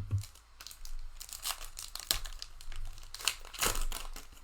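Plastic wrapper of a trading-card pack crinkling and tearing as the pack is opened by hand, in irregular crackles.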